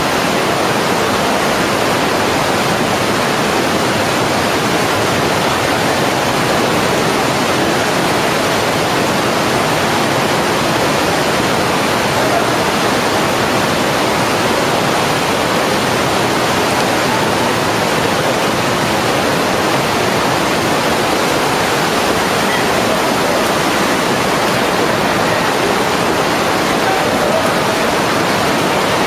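Waterfall: loud, steady rushing of falling water, unbroken throughout.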